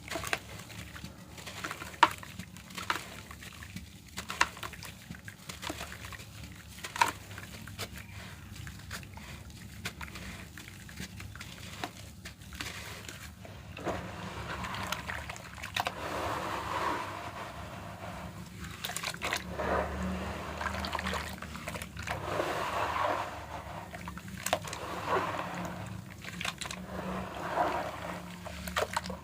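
Red dirt crumbling and crunching. Sharp cracks are scattered through the first half, followed by longer grainy crumbling in repeated swells.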